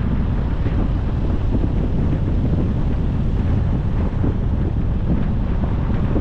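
Wind buffeting the microphone of a camera on a moving car: a steady, heavy rumble.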